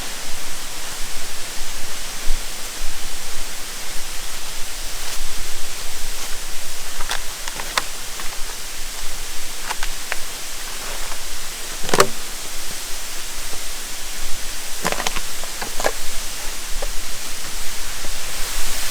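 Ero Omola waterfall rushing: a steady, even hiss of falling water, with a few brief clicks, the loudest about twelve seconds in.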